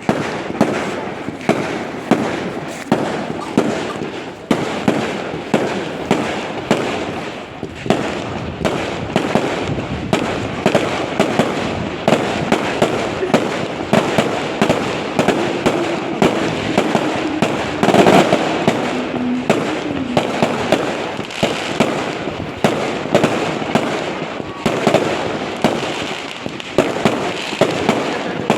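Fireworks display: a continuous barrage of bangs and crackles, several a second, with the loudest burst about eighteen seconds in.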